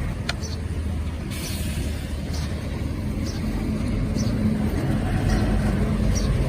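Steady low rumble of road traffic, with faint short high-pitched sounds about once a second.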